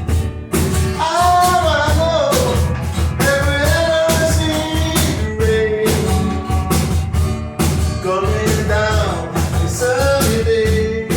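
Two acoustic guitars and a cajón playing a rock song, with a lead voice singing the melody over a steady beat.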